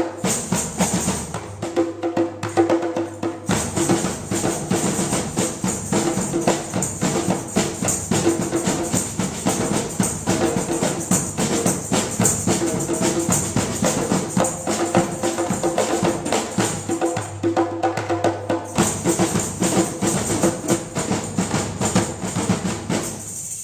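Drum ensemble playing a fast, dense percussion piece over steady low pitched notes; the piece stops abruptly near the end.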